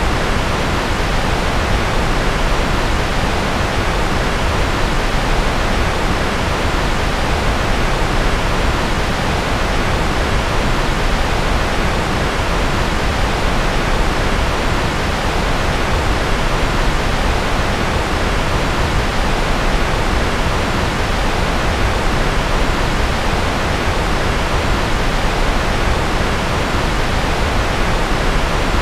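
Steady electronically generated noise sold as white noise: a continuous, unchanging hiss, heavier in the lows and mids and rolling off in the highs, closer to pink noise.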